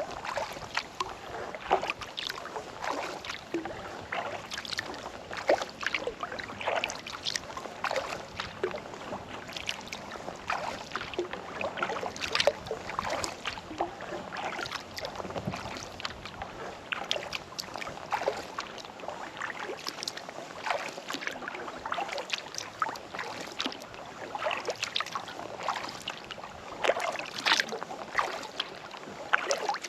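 Kayak paddle strokes in calm lake water: the blades dipping and pulling, with water dripping and splashing off them in a constant run of small, irregular splashes.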